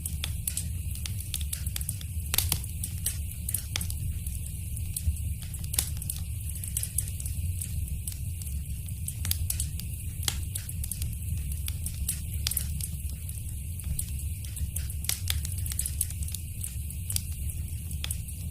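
Wood fire crackling in a fireplace: frequent, irregular sharp pops and snaps over a steady low rumble and hiss.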